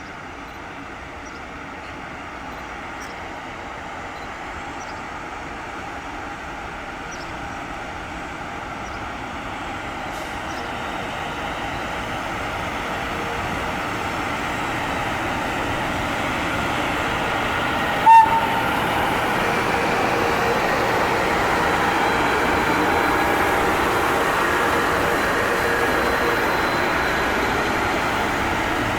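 A train approaching and running through the station without stopping, its rail noise growing steadily louder and then holding. One short horn toot sounds about eighteen seconds in.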